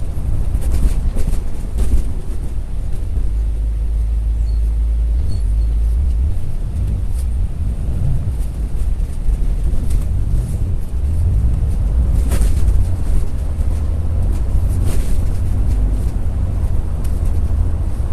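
Steady low rumble of a double-decker bus in motion, heard from on board, with scattered brief rattles and clicks.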